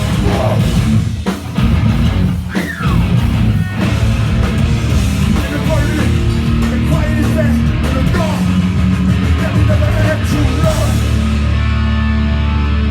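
Hardcore punk band playing live at full volume: distorted electric guitars, bass and drums. Near the end the cymbals drop out and a held guitar chord rings on.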